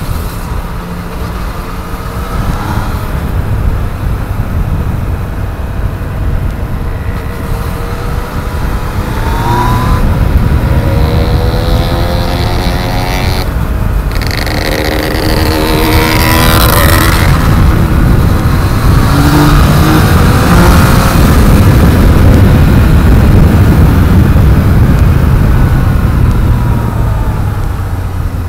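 Yamaha MT-09's three-cylinder engine accelerating in traffic, its pitch climbing through the revs twice, about ten and fifteen seconds in. A heavy wind rush on the microphone grows louder with speed and eases near the end.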